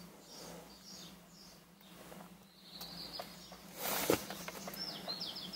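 Quiet background with a steady low hum and faint bird chirps, a few short high chirps near the end; a brief louder noise about four seconds in.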